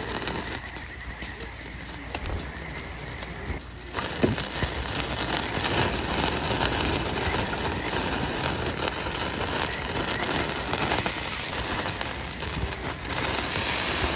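Skewered pork and vegetables sizzling and crackling over a campfire grill: a steady hiss full of small pops, which gets louder and hissier about four seconds in.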